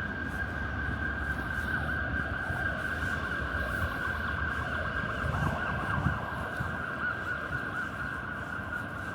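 Night street ambience: a constant low traffic rumble under a steady, unwavering high-pitched tone.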